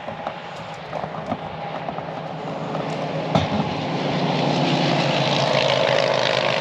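An engine running steadily and growing louder, like a vehicle drawing closer, with a few light clicks over it.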